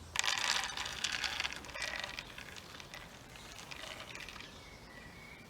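Rattling and scraping of objects being handled for about two seconds, then only quiet outdoor background.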